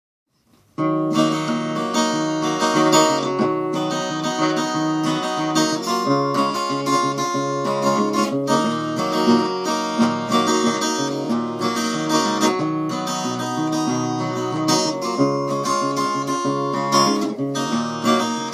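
Acoustic guitar playing an instrumental introduction, strummed and picked, starting just under a second in.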